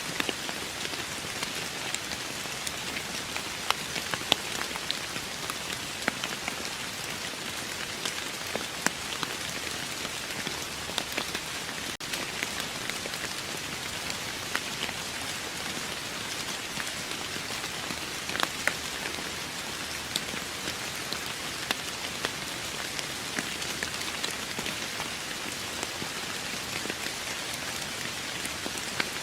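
Steady rain falling on a surface, an even hiss dotted with the sharp ticks of individual drops striking close by.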